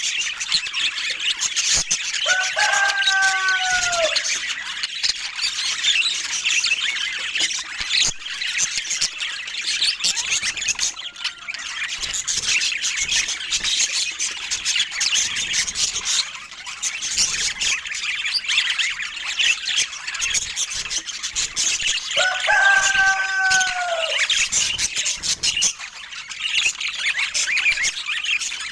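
Budgerigars chattering and warbling in continuous, busy high-pitched twitter. Twice, about two seconds in and again about 22 seconds in, a longer, lower call slides down in pitch over about a second and a half.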